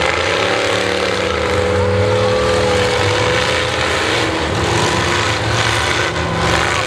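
Several demolition derby cars' engines running and revving at once, with pitches rising and falling over a dense, steady din.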